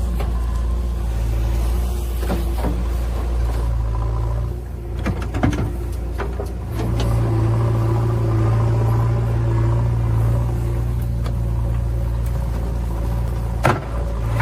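Heavy diesel engine of a backhoe loader or tractor running steadily with a deep, even hum. It eases off briefly about five seconds in, then picks up and holds steady.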